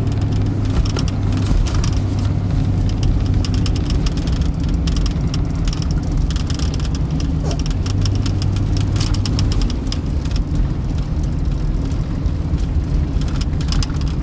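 Car engine running steadily: a constant low hum under a noisy hiss with scattered crackles.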